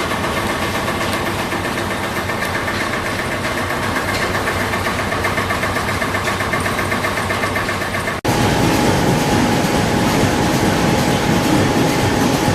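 Stationary engine running steadily with an even, rapid firing beat. About eight seconds in it cuts abruptly to a louder, lower rumbling machine with a steady whine over it.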